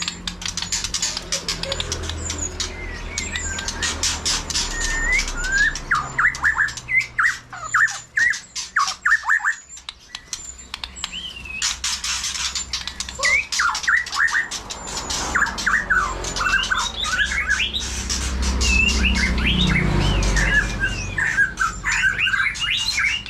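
White-rumped shama singing varied whistled phrases among other caged birds chirping, with a steady run of sharp clicks behind them. A low rumble swells up near the end.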